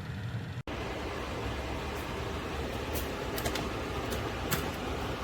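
Convection countertop oven's fan running with a steady hum, with a few light clicks in the middle.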